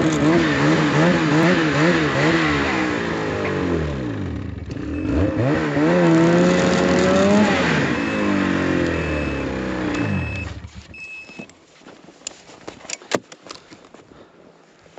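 Ski-Doo 850 Turbo two-stroke snowmobile engine revving under load as it pulls a dead sled uphill on a rope, its pitch wavering, dipping and climbing again before it fades out about two-thirds of the way through. After that come light scattered crunches and clicks.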